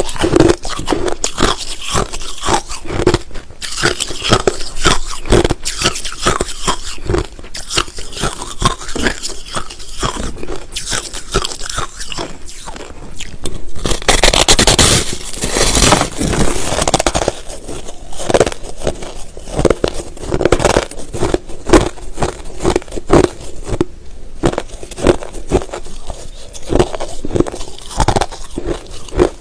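Close-miked crunching and chewing of white crushed ice, a dense run of rapid crunches with a louder, busier stretch about halfway through.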